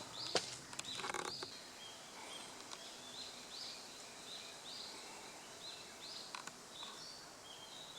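A bird repeating a short high call, roughly twice a second, over steady outdoor hiss. A few sharp knocks and a brief rustle come in the first second and a half.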